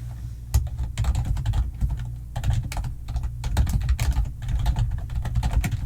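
Rapid typing on a computer keyboard: dense, irregular key clicks starting about half a second in, with brief pauses between runs of keystrokes.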